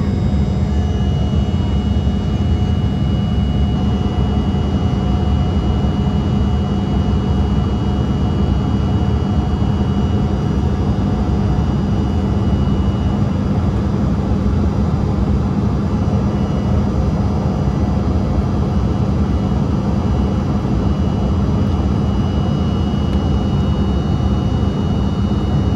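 Embraer 170's twin turbofan engines running steadily in flight, a constant rush of air with a low hum and a thin high whine, as heard inside the cabin.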